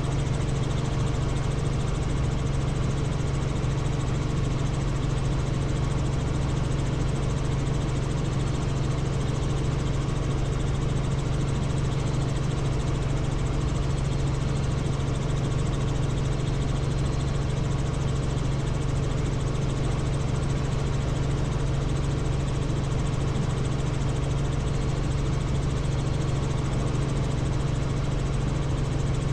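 Helicopter in flight: the steady, unbroken drone of rotor and engine, with a strong low hum.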